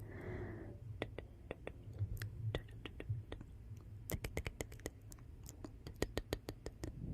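Wood fire in a fireplace crackling: irregular sharp pops and snaps, coming thicker in the second half, over the low steady noise of the flames, with a short hiss right at the start.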